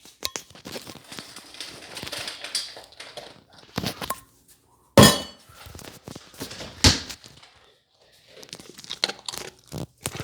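Dog eating dinner from a bowl: irregular crunching and small clicks, with louder knocks and clinks of the bowl about four, five and seven seconds in.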